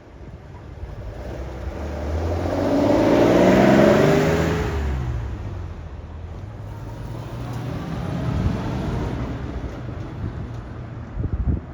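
Classic cars driving past one after another. The first passes close and accelerating, loudest about four seconds in, then fading away. A second, quieter car passes near the end.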